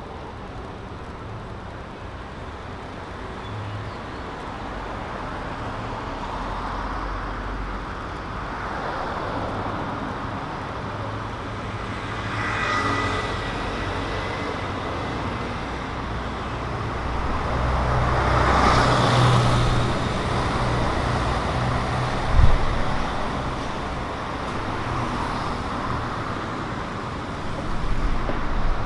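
City street traffic: a steady hum of cars and other road vehicles, with one passing louder about two-thirds of the way through. A short high squeal sounds near the middle, and a single sharp knock comes a few seconds after the loudest pass.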